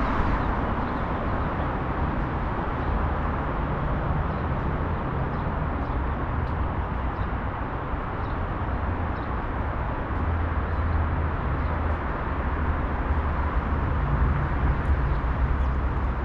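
Steady road traffic noise: a continuous low rumble with an even wash of tyre and engine sound, with no single vehicle standing out.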